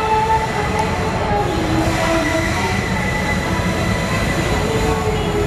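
Passenger train coach rolling slowly along a station platform, heard from the open doorway: a steady rumble of wheels on rails with a high, wavering squeal of the wheels on the track.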